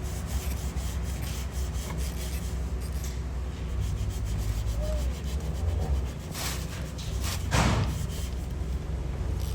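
Sanding of car bodywork during paint repair: repeated, irregular rubbing strokes over a steady low rumble, with a few louder strokes near the end.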